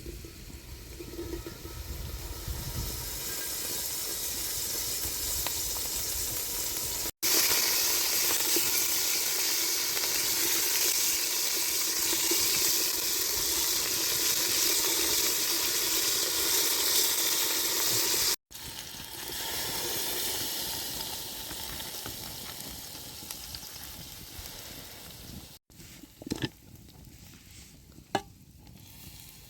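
Food sizzling as it fries in a pan, over several cut-together shots, loudest in the middle stretch. In the last few seconds the sizzle is quieter and there are a few sharp taps, typical of a utensil striking the pan while stirring.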